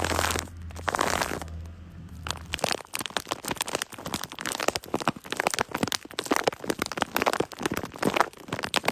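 Hands stroking and rubbing a cat's fur close to the microphone: a run of crackly, rustling strokes.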